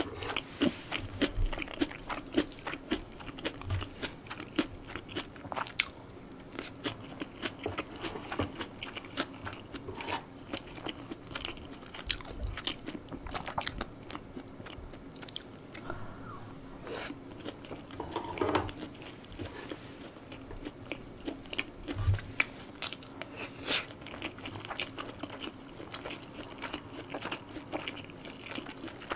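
Close-miked chewing and biting of stir-fried spicy pork and rice: a steady run of small, irregular crunches and clicks, with a few louder ones scattered through.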